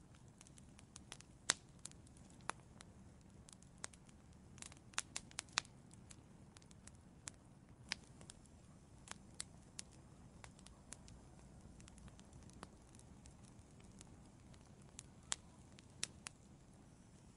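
Wood fire in an outdoor fireplace crackling: irregular sharp pops and snaps, a few louder ones, over a faint low hiss of burning.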